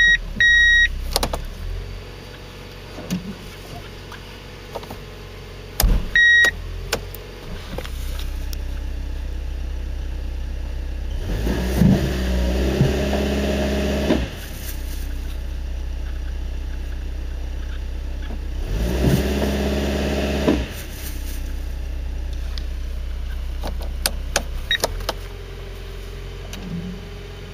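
Toyota HiAce Regius's 3RZ-FE 2.7-litre inline-four engine idling steadily, revved up twice, the first time about halfway through and the second a few seconds later, each time dropping back to idle. Short electronic beeps sound right at the start and again about six seconds in.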